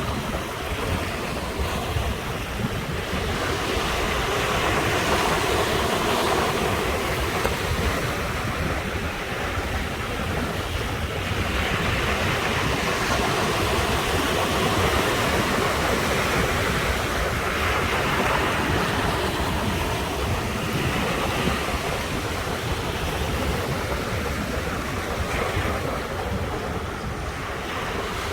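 Sea waves washing onto the shore in a continuous surf, swelling as a wave breaks every several seconds, with a low rumble of wind on the microphone.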